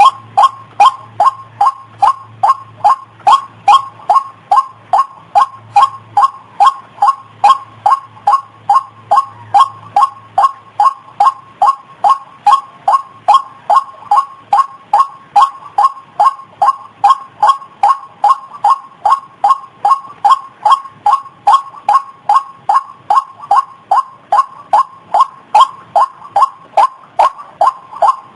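White-breasted waterhen (ruak-ruak) call repeated over and over, a sharp note about twice a second at an even pace, as played for a bird lure. A faint low hum underneath fades out about halfway through.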